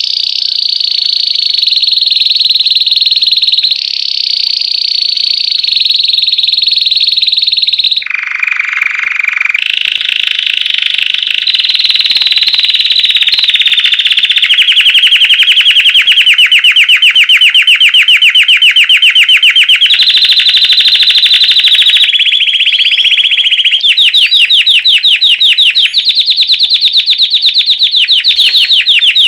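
White Belgian canary singing a continuous, loud song in a chain of rolls and trills, switching to a new phrase every few seconds. The second half holds fast, evenly repeated notes.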